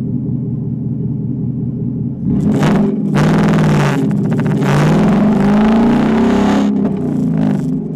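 Car engine idling, then revved hard several times from about two seconds in, its pitch rising and falling, before dropping back toward idle near the end.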